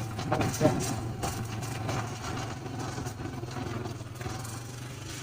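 Motorcycle engine running steadily at low speed, a low even hum, with a few short knocks in the first second.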